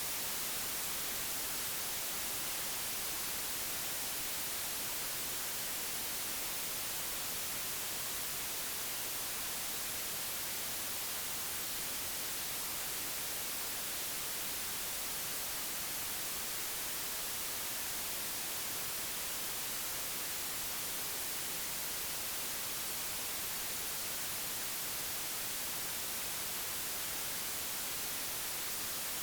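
Steady, unchanging white noise generated by software, an even hiss across the whole range, brightest in the highs.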